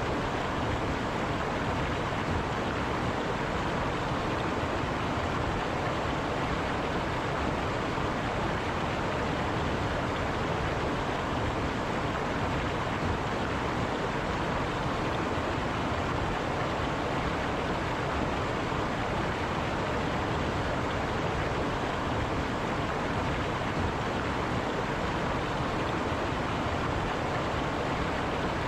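River water running steadily over rocks, an even rushing noise.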